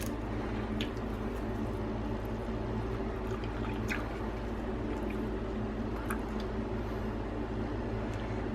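Faint wet squishes and a few light clicks and crackles of boiled crab being picked apart and eaten, over a steady low hum.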